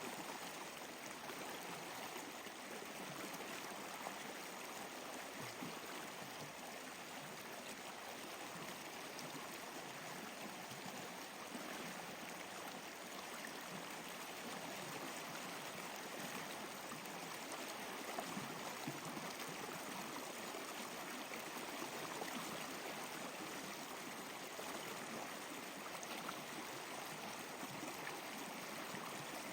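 Water flowing steadily in a stream, an even rushing trickle with no breaks.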